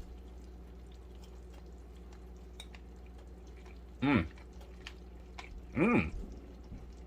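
Two short voiced sounds, about four and six seconds in, each rising then falling in pitch, over a faint steady hum with a few light clicks.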